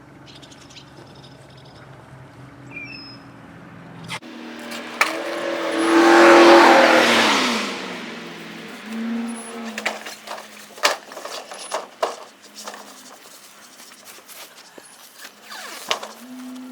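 A vehicle passes close by. Its noise swells to a peak about six and a half seconds in and fades, and its engine note falls as it goes. Scattered sharp clicks and knocks come through before and after it.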